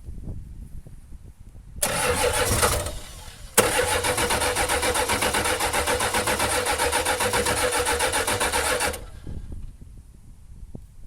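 Starter cranking a Ford 7.3 IDI V8 diesel in two tries, a short one of about a second and then about five seconds of even, rhythmic turning over, without the engine catching. The engine is worn out and its crankcase is overfilled with oil and water.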